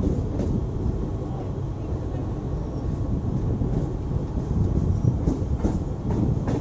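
Mumbai suburban electric local train running, heard from its open doorway: a steady low rumble of wheels on the rails, with a few sharp clacks near the end as the wheels strike track joints.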